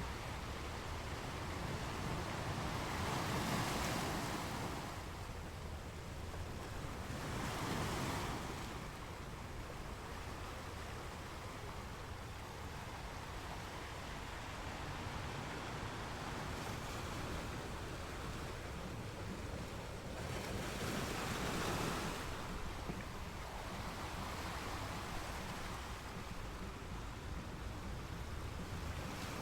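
Waves breaking on a rocky beach, with three swelling surges: two close together in the first third and one after a long lull, over a steady wash of surf.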